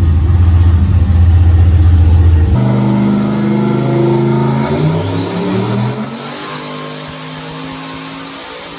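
Turbocharged LS V8 engine of a Chevy C10 pickup running loudly with a heavy low note. About two and a half seconds in the sound changes abruptly to revving. A high whine rises in pitch about five seconds in, and the engine sound then drops away.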